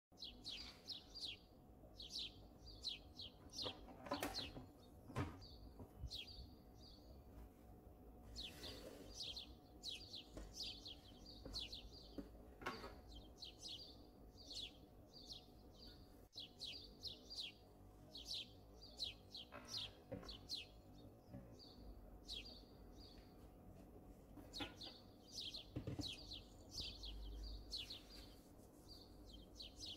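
Birds chirping continuously: a steady stream of short, high, falling chirps, several a second. A few soft knocks sound in the first half.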